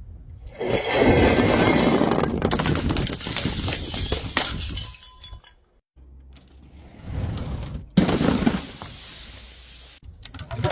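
Glass bottle being crushed, with dense crunching and crackling of breaking glass for several seconds. After a short pause the crunching starts again with a sharp crack, and a last burst comes near the end.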